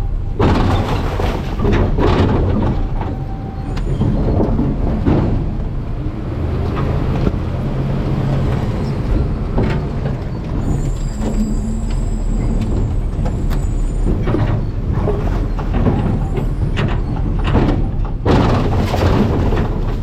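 Garbage truck running steadily, with repeated knocks, clatter and crunching of refuse in its rear hopper and a brief thin squeal about halfway through.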